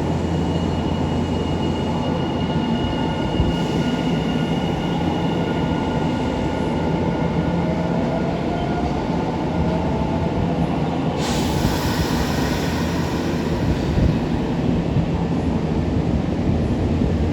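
Senboku Rapid Railway 3000 series electric train running, a steady rumble with faint rising whines in the middle. About eleven seconds in, a sudden rush of hiss comes in and holds for a few seconds.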